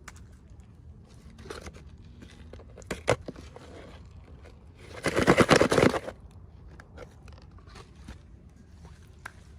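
Packaging being handled and opened by hand: scattered small clicks and rustles, a sharp click about three seconds in, and a loud crinkling, tearing burst lasting about a second just past the middle.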